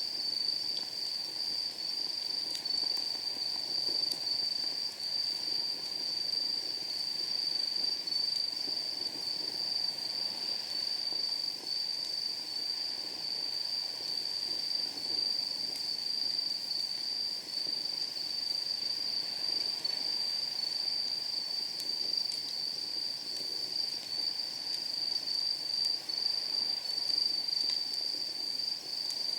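Chorus of night insects singing: one continuous high trill that throbs slightly. Beneath it, a wood fire burning in a steel fire pit gives a low rustle and an occasional faint crackle.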